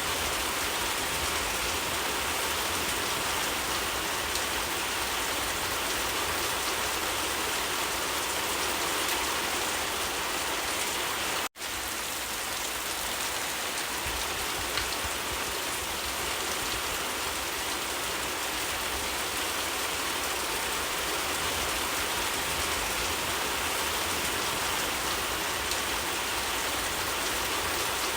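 Steady, even rain falling. The sound cuts out for a split second about eleven and a half seconds in, then resumes unchanged.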